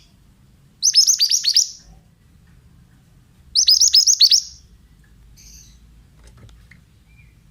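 Pied bushchat (mantenan) singing: two short phrases, each a rapid run of sharp, downward-slurred whistled notes, about three seconds apart, followed by faint scattered chirps.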